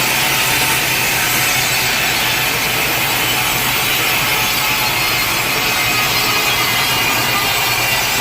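Sawmill saw cutting steadily through a large teak log, a continuous loud rasping sound with no pauses.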